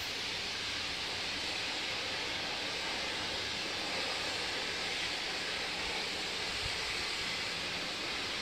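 Sandblasting: compressed air driving abrasive out of a blast nozzle in a steady, high hiss that holds without a break.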